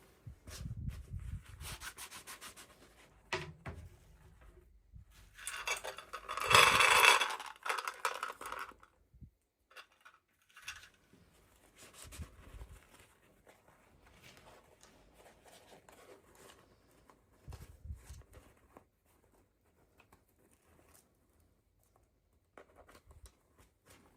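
Toy packaging being handled during an unboxing: irregular rubbing and scraping with scattered clicks, loudest in a longer rasping stretch about six seconds in.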